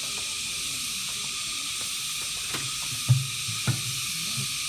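Loud, steady high-pitched chorus of crickets shrilling together. Two short low knocks come a little past three seconds in.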